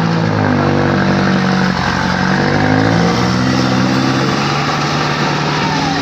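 4x4 truck engine running hard under load, its pitch rising and falling slightly as the throttle changes.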